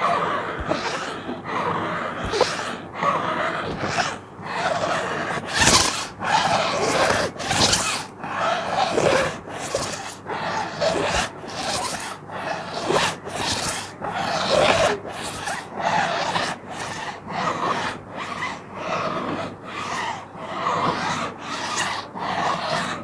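Fingernails scratching a plastic sheet in repeated rasping strokes, several a second, some bright and sharp.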